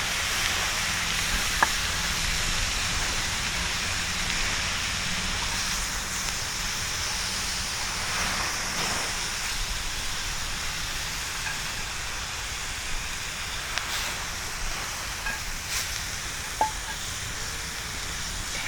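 Bonfire burning with a steady hiss and a few sharp crackling pops, the clearest about a second and a half in and near the end.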